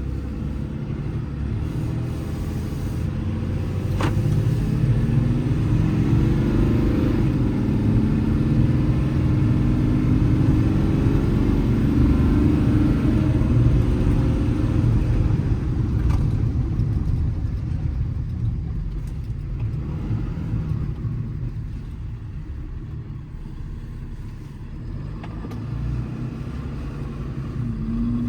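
Cummins diesel engine of a Ram 5500 service truck pulling away and accelerating. The engine note swells and climbs a few seconds in, holds for about ten seconds, then eases off. A single sharp click comes at about the point where the engine note swells, and another near where it starts to ease off.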